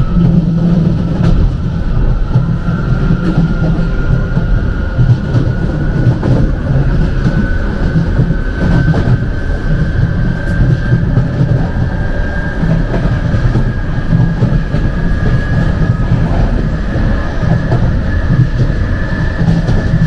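London Underground Jubilee line train running between stations: a steady heavy rumble of wheels on track, with a motor whine rising slowly in pitch.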